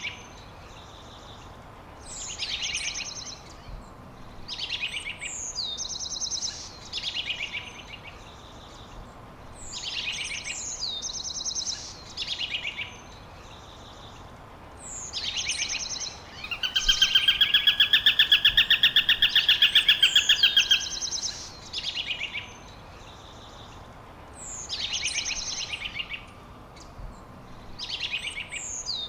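Wild songbirds singing: a short chirping phrase repeats every two or three seconds, and a loud, rapid trill comes in from about the middle of the clip for some four seconds, over a steady background hiss.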